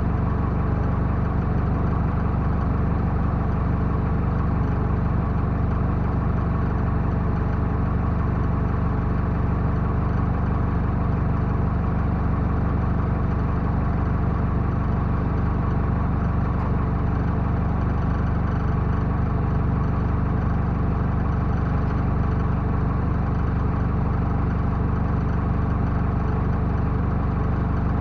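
Backhoe loader's diesel engine running at a steady, unchanging speed.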